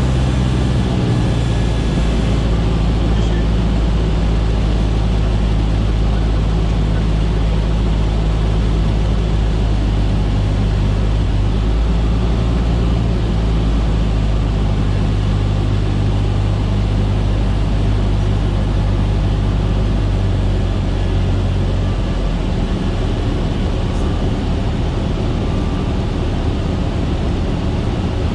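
Cessna 152's four-cylinder Lycoming piston engine and propeller droning steadily in flight. The drone changes and gets slightly quieter about twenty seconds in.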